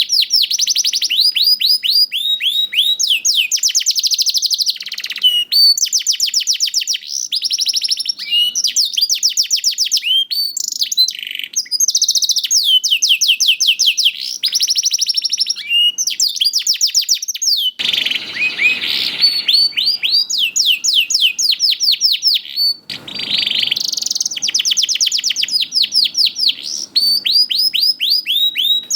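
Young domestic canary singing a long, continuous song of fast trills, each made of rapidly repeated down-sweeping whistled notes, switching between trill types every second or two. Twice, about 18 and 23 seconds in, a brief harsh noisy rasp cuts in.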